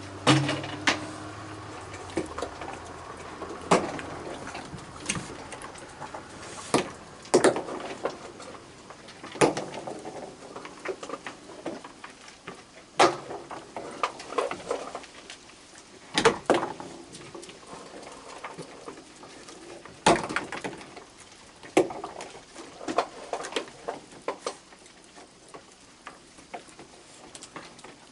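Raccoons eating cookies and moving about close by: scattered, irregular sharp clicks and knocks.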